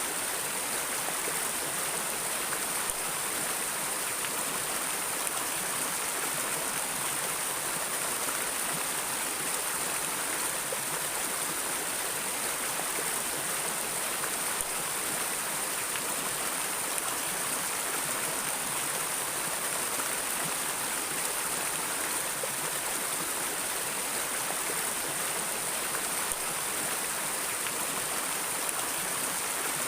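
A river or stream flowing steadily over rocks: an even, unbroken rush of water, bright and hissy rather than deep.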